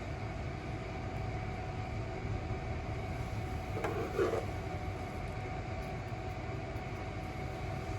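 A steady low mechanical hum with faint constant tones, and a brief soft rustle about four seconds in.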